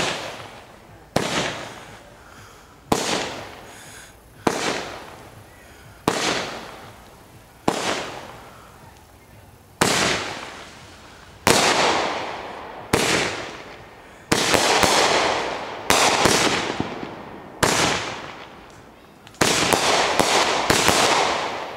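A multi-shot consumer aerial fireworks cake firing more than a dozen shots in a row, roughly one every second and a half. Each shot is a sharp bang that fades over about a second. From about ten seconds in the shots are louder with longer tails, and near the end several come in quick succession.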